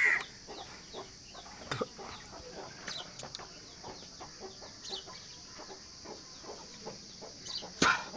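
Chickens clucking faintly in the background, with small scattered clicks of handling and one sharp click near the end.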